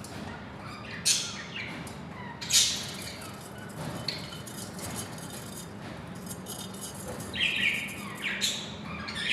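A pair of budgerigars chirping and chattering, with two loud squawks about one and two and a half seconds in and a burst of calls near the end.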